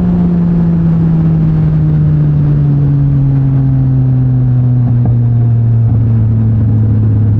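Yamaha MT-09 SP's three-cylinder engine through a Mivv X-M50 aftermarket exhaust, heard while riding, its note falling slowly and steadily as the engine speed drops, over a rush of wind noise.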